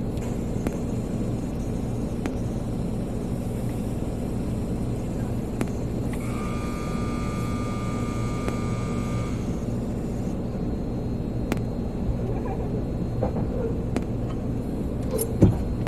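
Tunnel car wash machinery heard from inside a car on the conveyor: a steady low rumble, with a high whining tone that comes in about six seconds in and stops about three seconds later, and a couple of sharp knocks near the end.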